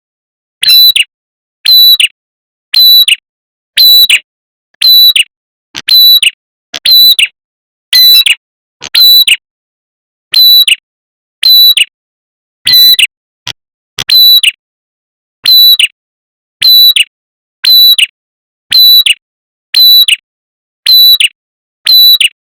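Red-headed prenjak lure call: the same short, high, sharp call repeated about once a second, like a looped recording, with a brief pause about ten seconds in.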